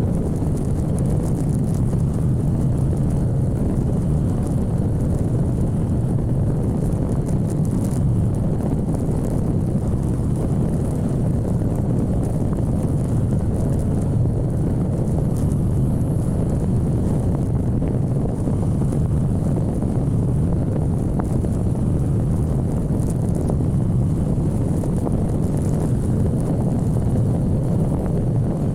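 Steady low rumble of wind buffeting the microphone, mixed with a motorcycle running at speed.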